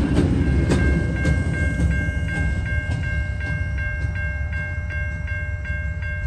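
Freight train's last container wagon rattling over the level crossing, a couple of wheel clicks early, then its rumble dying away. Over it the level-crossing warning bell rings steadily at about three dings a second.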